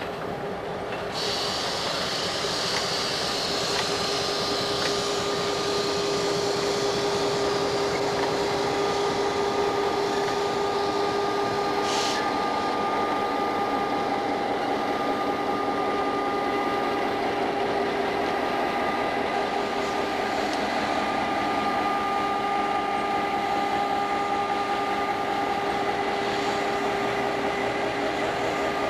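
Passenger train cars rolling past on the track, a steady rumble of wheels on rail with steady humming tones over it.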